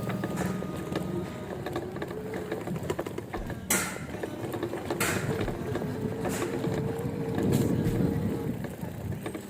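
Ride noise from an electric bike with a 500-watt hub motor: a steady mechanical hum with rattling and creaking, and two short, sharp noises about four and five seconds in.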